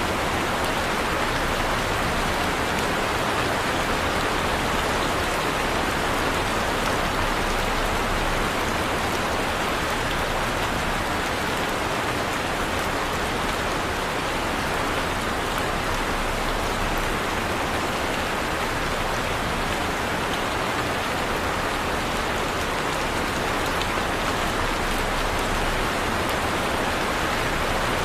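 Heavy rain falling steadily, a dense, even hiss of drops on surfaces with no thunder.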